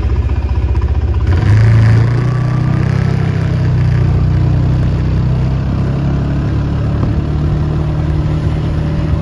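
Kymco KRV 180 scooter's single-cylinder engine running with a pulsing idle, then opened up about a second in and pulling steadily as the scooter rides off.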